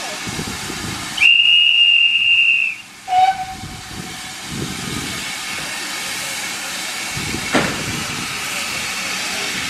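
Heritage train of coaches pulling out of a station, with a steady hiss from the moving train. About a second in, a high whistle sounds steadily for about a second and a half, followed just after by a short, lower toot.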